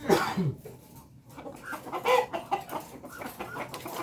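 Village chickens (ayam kampung) clucking, with a loud call falling in pitch right at the start and another call about two seconds in.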